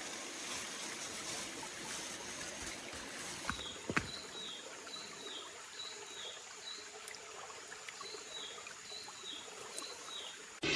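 Forest stream water trickling steadily. From about a third of the way in, a short high falling chirp repeats about twice a second, and there is a single sharp click about 4 seconds in.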